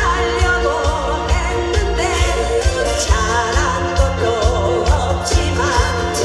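Trot song sung live with wavering vibrato over backing music with a steady beat.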